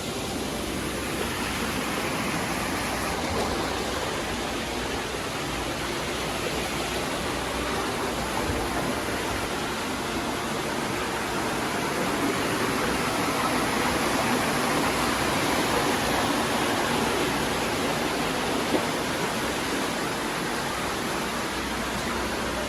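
Steady rush of running or falling water, like a small waterfall or stream, even and unbroken, swelling a little in the middle.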